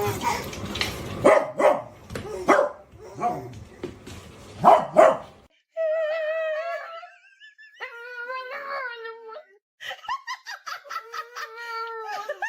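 A dog barking several times, then a dog vocalizing in clear pitched calls: a long wavering whine-howl, a second held call, and a quick run of short yips near the end.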